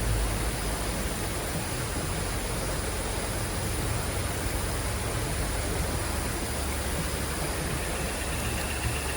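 Heavy rain falling with a steady, even hiss.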